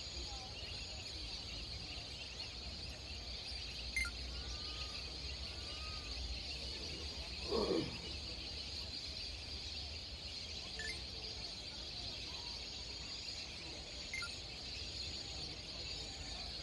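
Outdoor ambience with a steady high-pitched hiss and faint, scattered short bird calls. A louder falling sound comes about seven and a half seconds in, and a few sharp clicks are heard.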